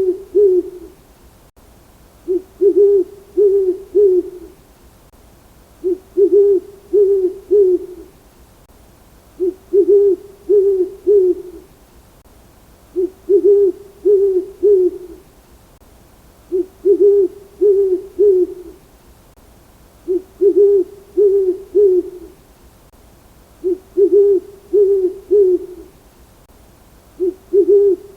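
A bird's three-note hooting call, repeated evenly about every three and a half seconds, eight or nine times.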